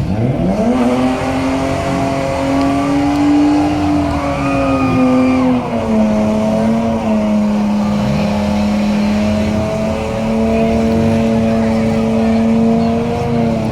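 Car engine revved hard for a burnout: the revs rise sharply at the start and are held high and nearly steady, dipping slightly about six seconds in before holding again, over a steady rushing noise.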